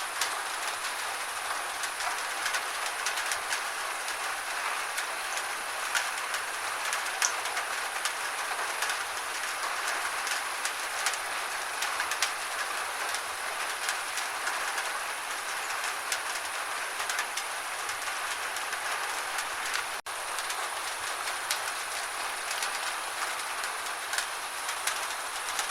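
Gentle rain falling steadily: an even hiss with many fine drop ticks, and a momentary dropout about twenty seconds in.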